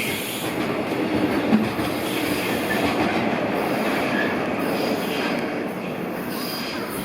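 A freight train's wagons rolling steadily past, with wheel-on-rail rumble and faint wheel squeal, easing slightly near the end.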